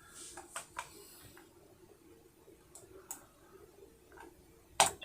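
A few scattered short clicks and taps at close range, with a sharper, louder click near the end.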